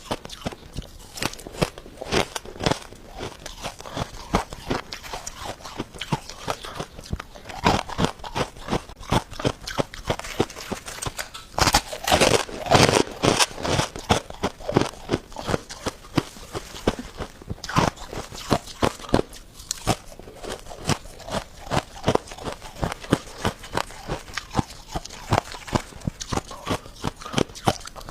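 Freezer frost being bitten and chewed close to the microphone: a continuous run of sharp crunches, several a second, busiest and loudest a little before halfway.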